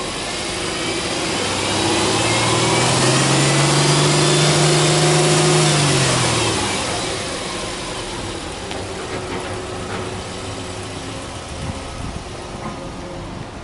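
Subaru Impreza 1.5i-S's flat-four boxer engine free-revved in neutral: from idle it rises over about a second, holds at raised revs for about four seconds, then drops back to a steady idle.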